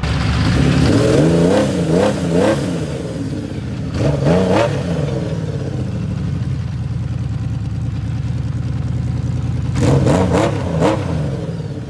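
Honda CBX1000's air-cooled inline-six engine running, blipped up and back down several times: a few seconds in, around four seconds, and again near the end. It is running on fresh stabilized fuel fed to the carburettors.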